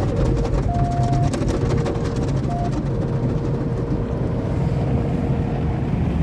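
Automatic tunnel car wash machinery heard from inside the car: rotating wash brushes and water spray working over the body, with a heavy low rumble. A fast patter fills the first second or so, and two steady humming tones switch on and off throughout.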